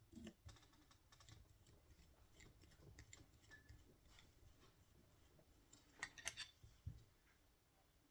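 Faint clicks and taps of small tools and plastic and metal parts being handled during model helicopter assembly, with a cluster of sharper clicks about six seconds in.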